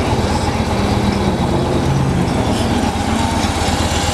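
2010 Victory Vision Tour's Freedom 106 V-twin idling steadily through its stock pipes, an even rapid pulse.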